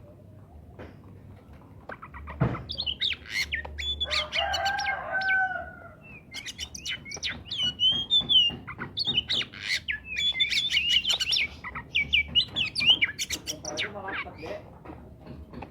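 Oriental magpie-robin (kacer) singing a fast, varied song of rapid whistled and chattering notes, starting a couple of seconds in and fading near the end. A sharp knock comes just as the song starts, and a lower drawn-out call sounds about four seconds in.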